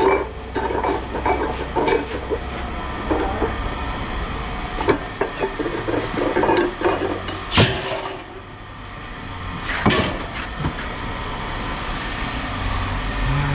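Pieces of scrap metal clanking and rattling as they are sorted and tossed into piles, with a few sharp metallic strikes, the loudest about seven and a half seconds in. A low steady hum runs underneath.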